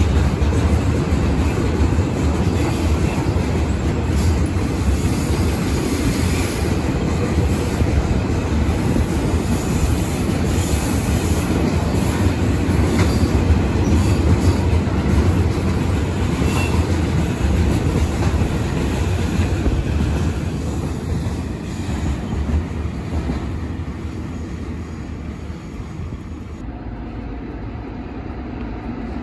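Train rolling past on the rails: a steady rumble of wheels and cars that dies down over the last several seconds.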